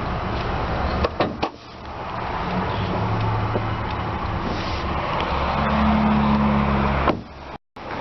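A car running with a steady low hum over background noise, the hum growing stronger for a second or two late on. A few sharp clicks come about a second in, and the sound cuts out briefly near the end.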